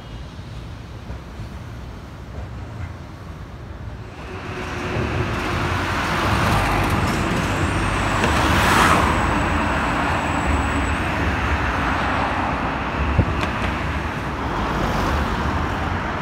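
Electric commuter train passing overhead on a steel girder railway bridge. The rumble builds from about four seconds in and is loudest near the middle, with a thin high whine for a few seconds at its peak.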